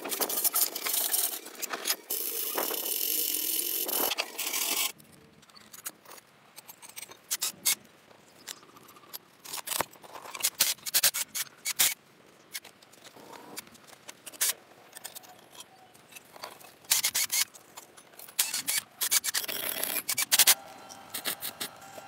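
Scraping and rubbing of restoration work on a car, a dense run of scraping for the first five seconds, then scattered scrapes and clicks, with another busy stretch near the end.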